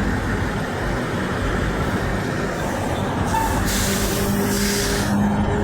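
Heavy road traffic from passing semi trucks, a steady rumble and tyre noise. From about three seconds in comes a hiss with a faint low steady tone under it for a second or two.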